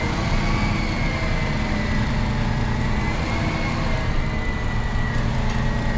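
Hook-lift roll-off truck's engine running steadily, a low rumble with a steady high whine over it.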